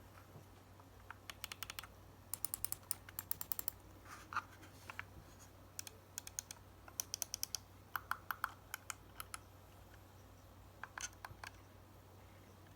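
Razer Basilisk V2 gaming mouse buttons clicking in quick runs of several sharp clicks, with short pauses between the runs.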